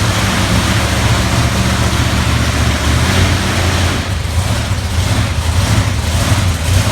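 Loud monster truck engine running steadily, with a constant low drone.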